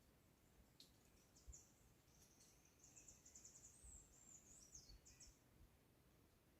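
Faint, high-pitched songbird song: scattered chirps, then a fast run of repeated notes from about three seconds in that ends in a few falling notes. A few faint low thumps lie underneath.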